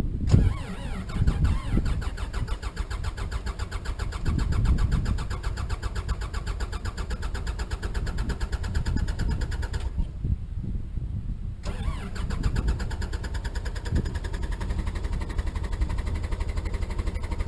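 2008 Komatsu D39 dozer's diesel engine cold-starting at about 16 °F: it catches at the start and then runs steadily at idle.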